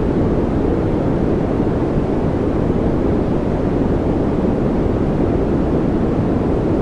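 Steady white noise: an even, deep rushing hiss that never changes in level or character.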